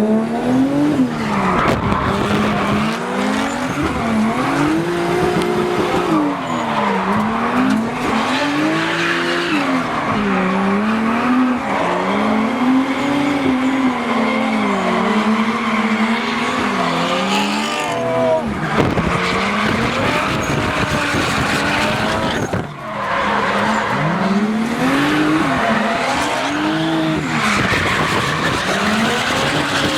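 Toyota Chaser's 1JZ straight-six revving up and down hard while drifting, its pitch rising and falling every second or two, with tyres squealing and skidding throughout. The throttle lifts off briefly about three-quarters of the way through.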